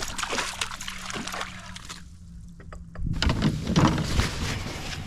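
Water splashing and sloshing at a kayak, with sharp knocks and clatter that get louder about three seconds in.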